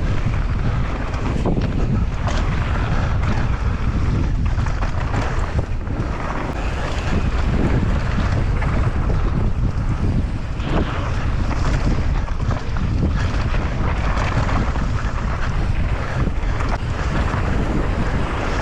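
Wind buffeting the microphone of a rider's camera on a fast mountain bike descent, with a steady rush of tyre and trail noise and scattered small knocks.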